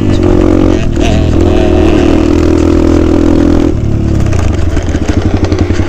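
Dirt bike engine running steadily on the throttle, then shut off about four seconds in and dropping to an uneven, pulsing idle.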